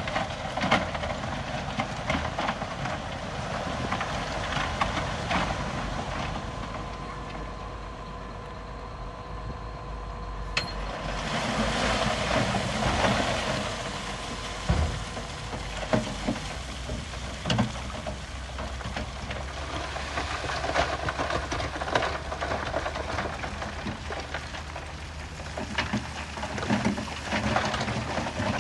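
Heavy earth-moving machinery at work: a diesel engine running under load with repeated clanks and knocks, as of tracks and moving stone. About ten seconds in, a faint steady whine stops and the noise grows brighter.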